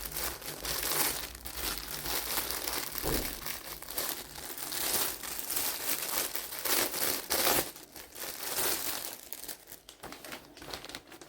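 Plastic packaging being handled and unwrapped by hand, crinkling in irregular bursts that thin out near the end.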